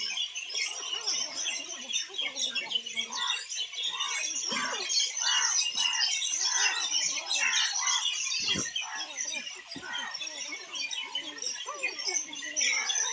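Many small birds chirping and twittering together, a dense continuous chatter of short high calls.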